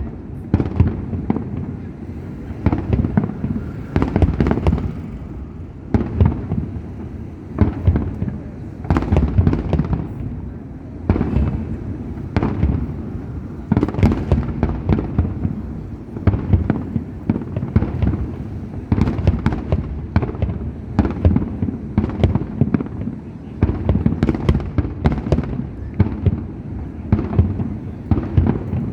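Fireworks display: aerial shells bursting in a dense, unbroken series of booms, several a second, with louder clusters every second or two.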